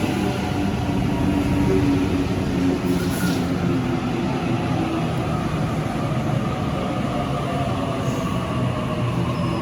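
Train running through the station at close range: a steady loud rumble with several whining tones from its motors, which drop slightly in pitch in the second half.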